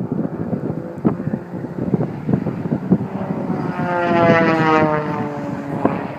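Aerobatic stunt plane's engine droning overhead, swelling about halfway through to its loudest and then fading, with its pitch sliding slowly down as it passes. Wind buffets the microphone throughout.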